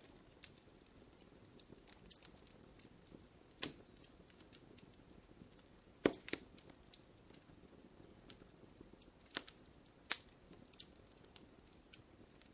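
Wood fire crackling in a fireplace: irregular sharp pops and snaps over a faint low hiss, the loudest pop about six seconds in.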